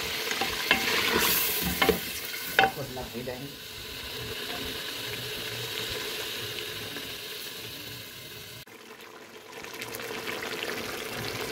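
Meat masala with yogurt and butter sizzling and frying in an aluminium pressure cooker, stirred with a wooden spoon, with a few sharp knocks of the spoon on the pot in the first few seconds. The sizzling cuts off abruptly about three-quarters of the way through, then builds up again.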